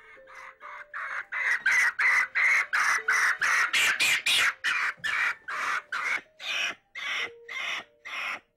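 A capuchin monkey screaming in distress over and over, short rapid shrieks about three a second, while she is held for a blood-sugar test. The calls are loudest in the middle and ease off near the end.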